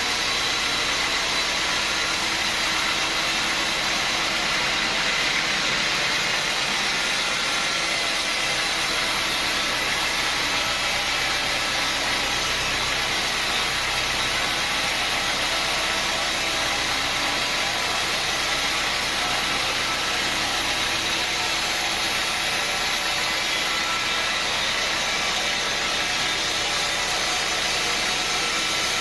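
Sawmill machinery running steadily, a constant engine-like drone with no breaks or changes.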